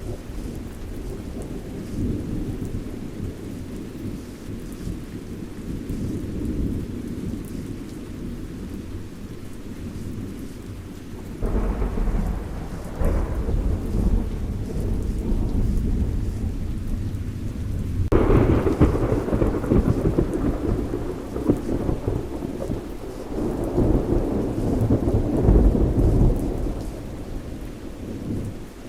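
Thunderstorm: steady rain under a low rumble of thunder, with a sudden thunderclap about a third of the way in and a louder one a little past halfway, then more rolling thunder near the end.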